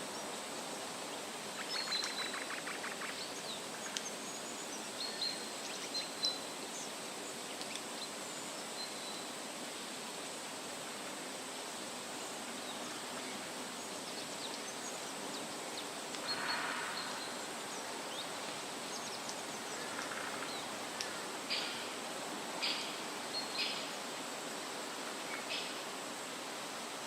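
Wind rustling steadily through leafy trees, with scattered short bird chirps and calls over it. There is a brief buzzy trill near the start, a burst of song about halfway through, and a quick run of chirps near the end.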